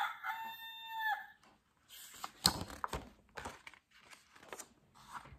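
Recorded rooster crowing from an electronic toy sound pad, a long held final note that ends about a second in. After it come paper rustles and soft knocks as a book page is turned.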